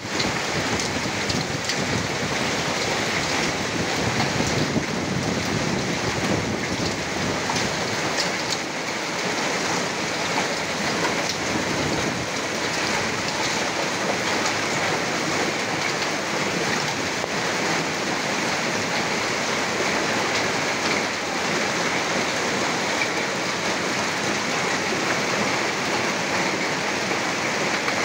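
Heavy rain falling steadily on a street and rooftops, an even, unbroken downpour.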